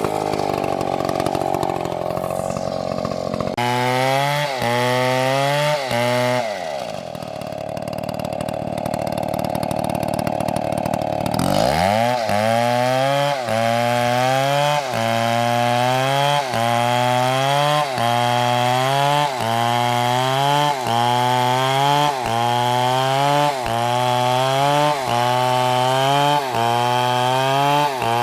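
Big MS720 chainsaw cutting a large tree at full throttle. The engine bogs and recovers under load, eases off to a lower speed for a few seconds near the middle, then revs back up. After that it loads down and picks up again in a steady rhythm, about once every second and a half.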